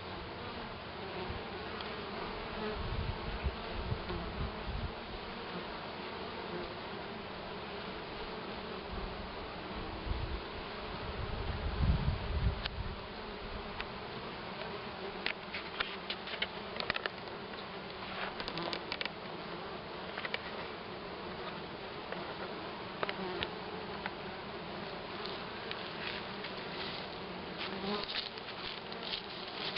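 Honeybees buzzing steadily at the hive, a colony in flight around it. A low rumble swells briefly about twelve seconds in, and faint short clicks are scattered through the second half.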